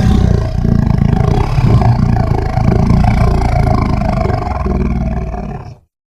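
A creature roar sound effect: one long, deep, rough roar of nearly six seconds that ends with a sudden cut to silence.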